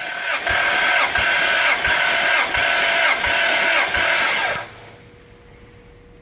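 Toyota 2JZ-GTE VVT-i inline-six being cranked over on its starter motor without firing, as is done for a compression test. The starter whine rises and falls with each compression stroke, about three pulses a second. It stops abruptly about four and a half seconds in.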